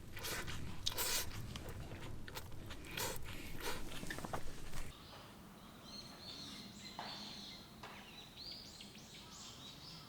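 Irregular crunching and rustling for about five seconds, stopping suddenly. After that it is quieter, with a bird calling repeatedly in short, high notes near the end.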